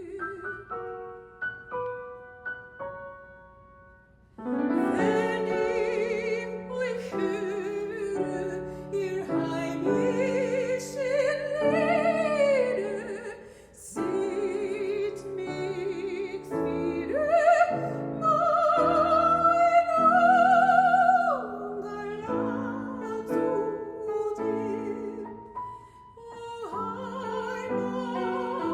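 Operatic soprano singing with piano accompaniment. The piano plays alone for about the first four seconds, then the voice comes in with wide vibrato and holds a long high note past the middle.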